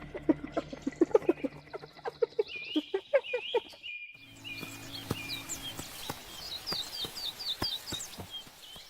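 Birds chirping in short, high, falling notes, repeated many times in the second half. Before that comes a rapid run of knocks with short low pitched sounds, and a faint steady low tone runs under the later chirps.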